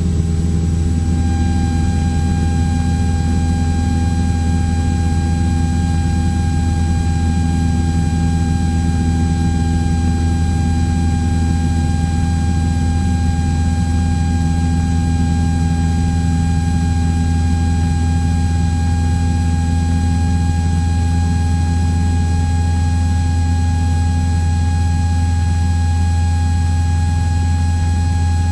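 Cessna 172's piston engine and propeller running steadily in cruise: a constant low drone with a thin steady whine above it.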